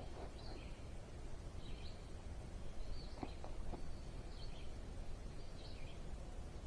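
A songbird repeating a short, high chirping phrase about every second and a quarter, over a steady low outdoor rumble, with a few faint clicks in the middle.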